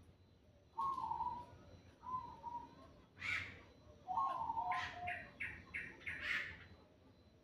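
Birds calling and singing: a few short, lower-pitched calls, with louder bursts of quick, high chirping notes in between.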